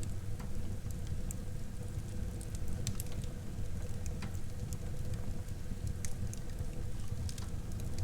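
Wood fire burning in a fireplace: a low steady rumble of flames with scattered sharp crackles and pops of burning wood.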